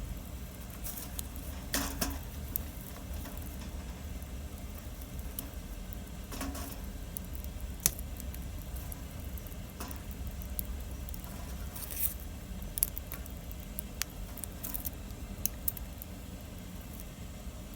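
Wood fire burning with scattered irregular crackles and pops, a few sharper snaps among them, over a steady low rumble.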